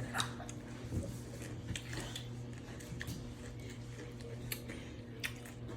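Scattered small clicks and soft crunches of food being handled and eaten, over a steady low electrical hum.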